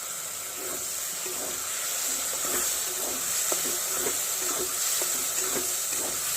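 Fried onion, capsicum and spice masala sizzling in a pan with tomato sauce just added, while a spatula stirs and scrapes it in short irregular strokes.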